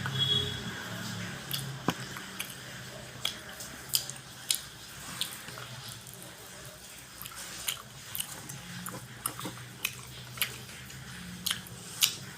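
Close-up mukbang eating: chewing of rice and side dishes, with irregular wet smacks and sharp mouth clicks, a dozen or so of them spread unevenly.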